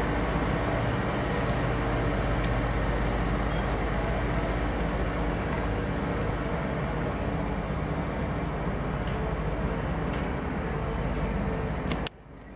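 Heavy diesel engine running steadily under load, a constant low hum with a few steady tones over it; it cuts off suddenly near the end.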